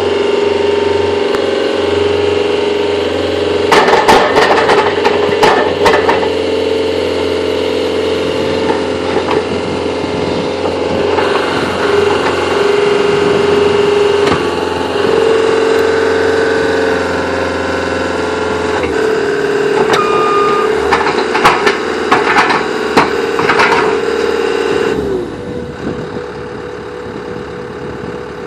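Caterpillar 287C compact track loader at work: its diesel engine runs at high throttle, the pitch shifting slightly under load, with bursts of clanking and knocking about four seconds in and again around twenty to twenty-four seconds in. Near the end the engine throttles down, its pitch falling and the sound growing quieter.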